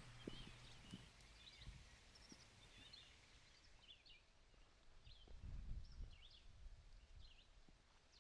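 Faint birdsong: a string of short, quick chirps, repeated every half second or so, over a soft steady hiss. A few low, dull thumps come in around the middle.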